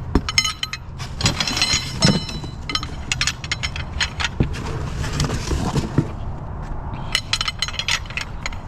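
Metal scrap being handled by hand: a rapid series of clinks, rattles and knocks of metal parts, busiest about a second in and again near the end, over a steady low hum.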